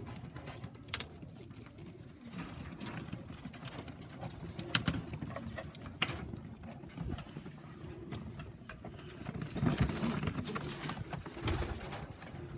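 Racing pigeons cooing in a loft, with scattered clicks and knocks among them, and a louder stretch about ten seconds in.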